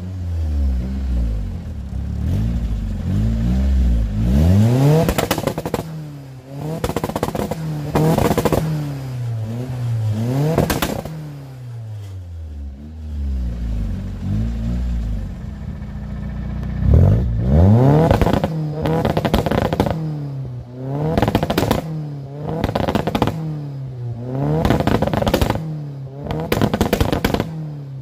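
Nissan S14's turbocharged KA24DET inline-four, revved again and again against its 2-step launch-control rev limiter. Each time the revs climb, stutter at the limiter in a rapid string of exhaust pops and bangs, then fall back toward idle.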